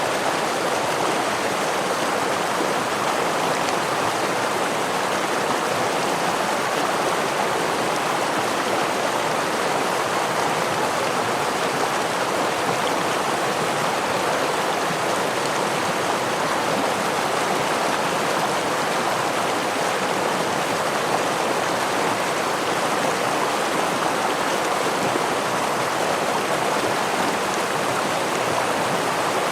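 Steady rush of a stream flowing over a small waterfall, an even, unbroken splashing of water.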